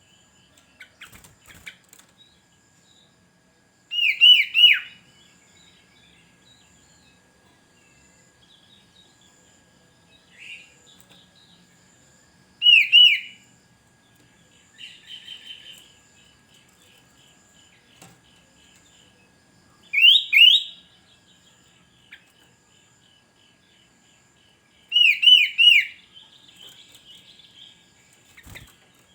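Sooty-headed bulbul (kutilang) calling: four loud bursts, each of two to four quick falling notes, several seconds apart, with softer chirps in between.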